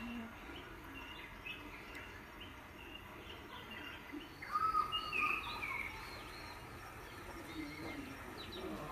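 Birds chirping and calling over a steady outdoor background noise, with a louder run of calls about four to five seconds in.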